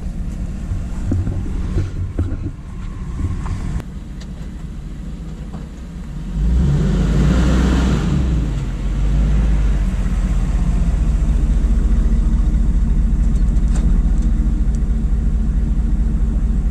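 Car engine and road noise heard from inside the vehicle while driving, getting louder about six and a half seconds in as it picks up speed, then running steadily.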